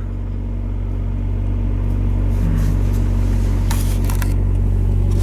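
2005 VW Passat TDI's four-cylinder BHW diesel engine idling steadily while it warms up after a cold start. A few light clicks come about four seconds in.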